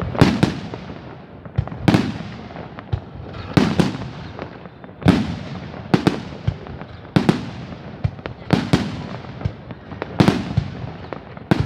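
Fireworks display bursting overhead: a series of sharp bangs, about one every second and a half, each trailing off in an echo.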